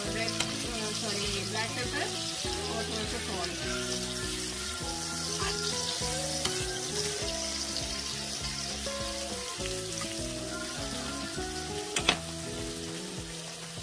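Chapli kababs and tomato slices sizzling in hot oil in a frying pan, with a spatula scraping and turning them and a sharp knock near the end. Background music plays underneath.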